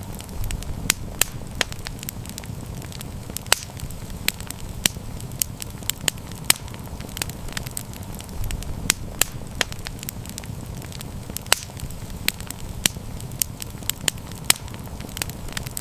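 Campfire burning, with frequent sharp, irregular crackles and pops over a low, steady rumble of flames.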